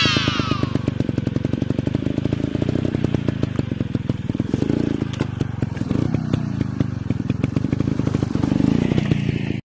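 Dirt bike engine running with its rapid firing pulses and a few small swells of throttle, while a high whine falls away in the first second. The sound cuts off suddenly near the end.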